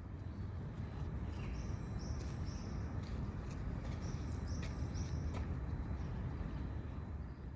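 Small birds chirping, about eight short high chirps in the first two-thirds, over a steady low rumble.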